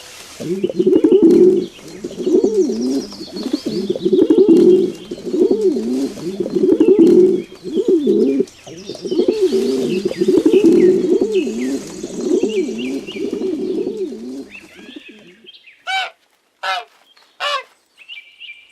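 Pigeons cooing, a run of repeated low, rolling coos lasting about fifteen seconds, with small birds chirping faintly above them. Near the end the cooing stops and three short, sharp calls follow, about a second apart.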